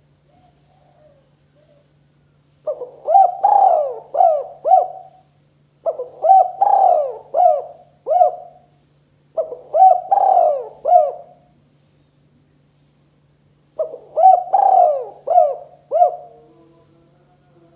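Spotted dove (tekukur) cooing: four phrases a few seconds apart, each a quick run of four or five coos.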